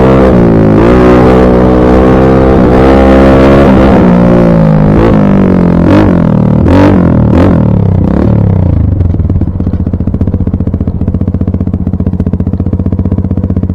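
Dirt bike engine revving up and down as it is ridden, with a few sharp rev blips, then dropping to a steady idle about nine seconds in.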